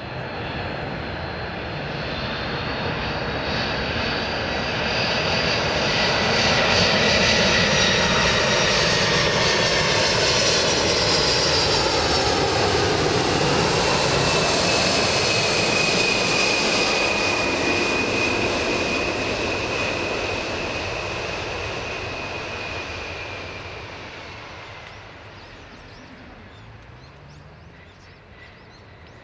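Boeing 747-400 converted freighter's four jet engines on landing approach, passing low overhead. The noise builds to a peak with a high whine, the tones fall in pitch as it passes, and it then fades away over the last several seconds.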